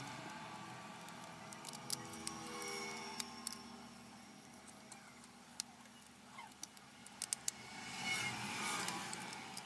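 Scattered light clicks and taps of small tools and parts during a phone's disassembly, over a steady low background noise.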